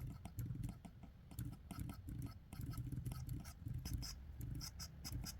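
Sketching on paper: short, scratchy drawing strokes in quick succession, with a low rub beneath them.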